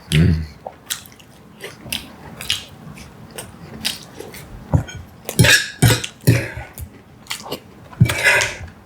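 Close-miked chewing of a piece of pie with its crust: wet mouth sounds and short clicks, with a few louder bites about five and eight seconds in.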